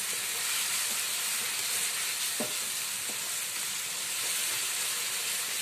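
Onion and chilli masala sizzling in ghee in a non-stick frying pan while being stirred with a wooden spatula: a steady frying hiss with two faint knocks of the spatula about two and a half and three seconds in.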